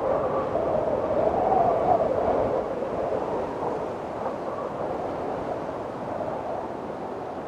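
Windstorm wind blowing hard, with a wavering whistling tone over a steady rush. The tone rises and swells about a second or two in, then eases.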